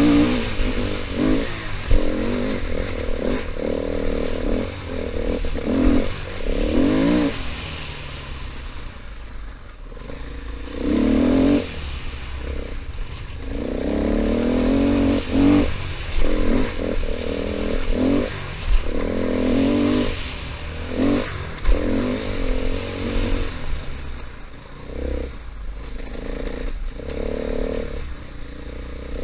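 KTM 500 EXC single-cylinder four-stroke dirt-bike engine, the throttle opening and closing over and over so the engine note keeps rising and dropping, with scattered knocks and clatter from the trail and a steady low rumble underneath.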